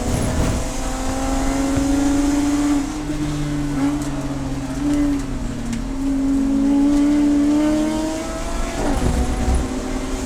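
Race car engine running hard. Its note climbs steadily and then steps down sharply several times: about three seconds in, about four seconds in, and again near the end.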